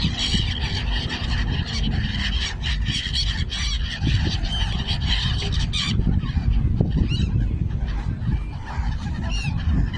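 A flock of birds calling, with short cries scattered through and a few clearer rising calls in the second half, over a steady low rumble.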